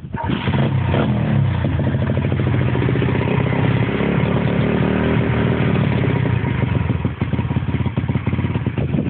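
Pit bike engine running steadily at a fairly constant speed.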